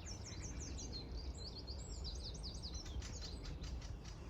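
Small birds chirping in quick high runs of notes, over a steady low rumble.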